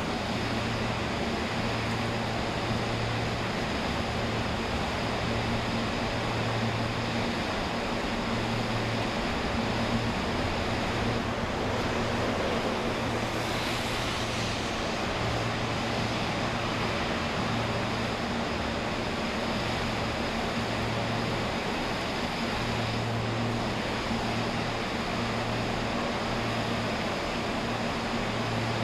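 Amtrak passenger train pulling out of the station: a steady rumbling noise with a low hum that keeps cutting in and out.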